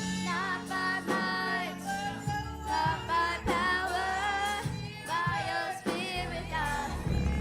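Gospel worship song: a singer's voice sliding through a melody over band accompaniment with a steady bass.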